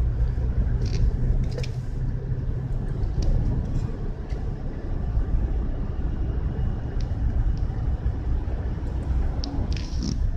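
Car driving, heard from inside: a steady low rumble of engine and road noise, with a few faint clicks now and then.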